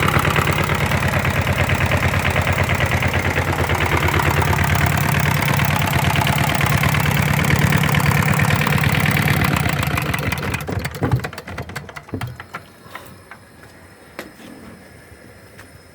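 Hatz diesel engine running steadily with an even, rhythmic beat, then shut down about ten seconds in and running down to a stop. A few faint clicks and knocks follow.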